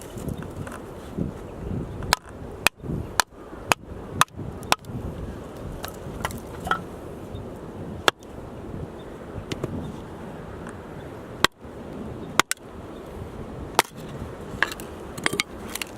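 Firewood being chopped with an axe: sharp wood-splitting strikes, first a quick run of about six at roughly two a second, then single strikes a few seconds apart.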